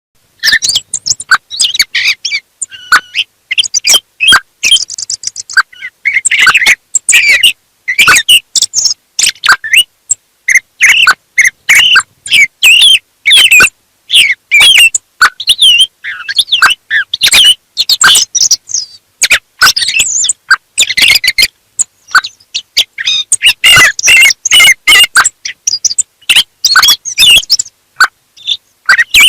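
Thrush singing: a loud, continuous run of varied short chirping notes and phrases, one after another with only brief pauses.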